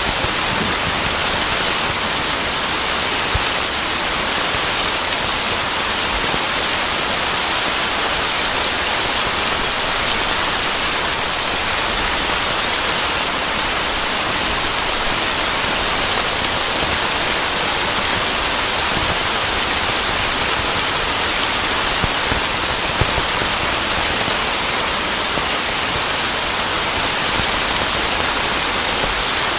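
Steady heavy rain falling, a dense even hiss with scattered individual drop taps.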